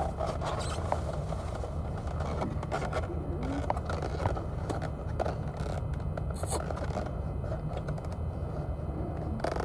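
Scraping, scratching and crackling of food packaging being handled and opened, over a steady low rumble.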